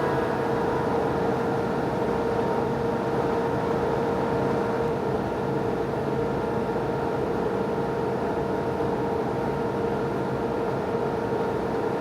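Thickness planer running steadily with a constant whine over its motor and cutting noise, as it planes a glued-up wood blank.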